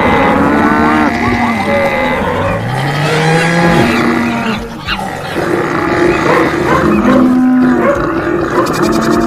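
Animal stampede sound effect: many animals calling over one another, cattle mooing among them, over a continuous noise of the running herd. One low call rises in pitch about three seconds in.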